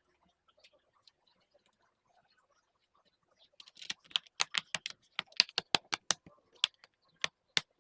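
A quick run of about twenty sharp plastic clicks from the laptop being handled during reassembly. The clicks start about three and a half seconds in and space out toward the end.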